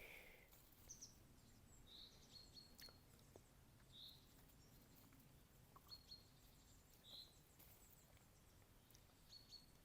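Quiet woodland ambience with faint, scattered bird calls: a few short high chirps and brief whistled notes, one every second or two.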